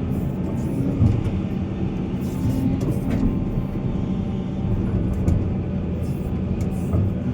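Heavy diesel mining machinery, excavator and dump trucks, running with a steady low engine rumble, with a few short knocks, about one second in, near the middle and near the end.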